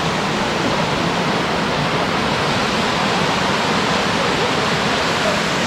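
A wide monsoon stream rushing, a steady, loud wash of water.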